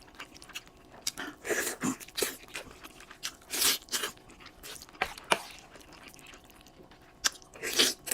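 Close-miked eating sounds: irregular crunchy bites and chewing, with a few sharp clicks, loudest a little past the middle and near the end.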